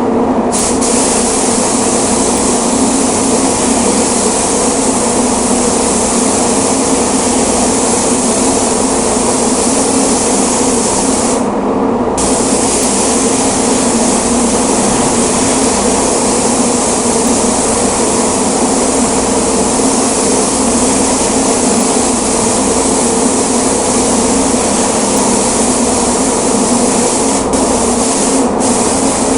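Paint spray gun hissing as paint is sprayed, with the trigger released briefly about a third of the way in and twice near the end, over a steady low hum.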